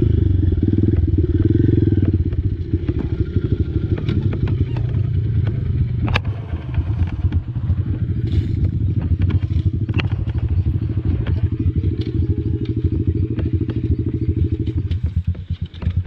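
Small single-cylinder four-stroke Honda dirt bike engine running under way, with scattered sharp clicks and clatter. Near the end the engine drops to a slower, quieter putter.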